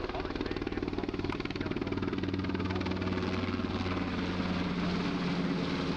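Twin-turbine military helicopter flying: rapid rotor chop over a steady turbine hum, growing slightly louder about two seconds in.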